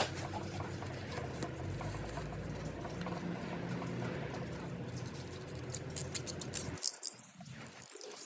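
Scratchy scraping on the water pump mounting face of a 1.6 HDi diesel engine as old gasket residue is cleaned off, with a quick run of sharp clicks near the end.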